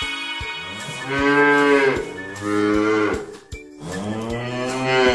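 Cow mooing three times, each moo long and drawn out, about a second apart.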